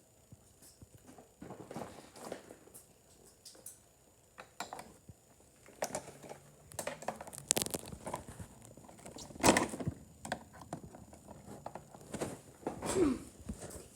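Plastic toy parts and packaging being handled and worked free: scattered clicks, knocks and rustles, with two louder knocks in the middle.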